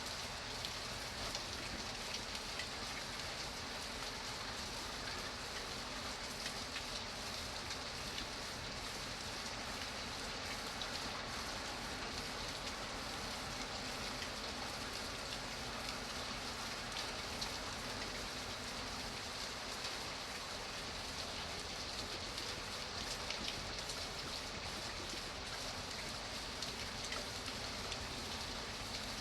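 Steady rain falling on a surface, an even hiss dotted with small drop ticks.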